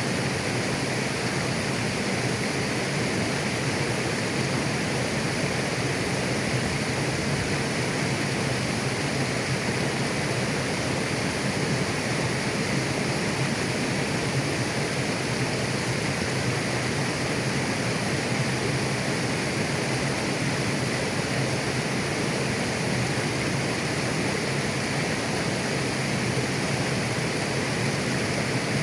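A mountain river running over stones: a steady, even rush of flowing water.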